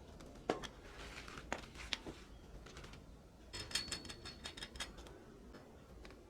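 Scattered sharp clicks and knocks, then a quick run of ringing metallic clinks about three and a half seconds in, lasting a little over a second, like small metal parts or tools being handled.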